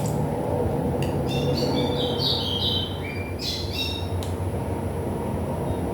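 A songbird singing a quick run of short high notes at shifting pitches for about three seconds, over a steady low background hum.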